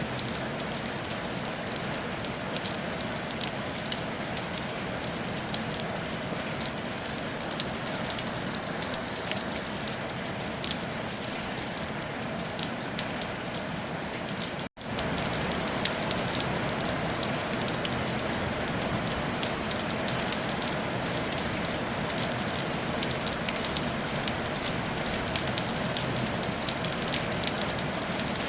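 Steady rain on a tile roof: a dense patter of drops with many fine clicks. About halfway through it cuts out for an instant and comes back slightly louder.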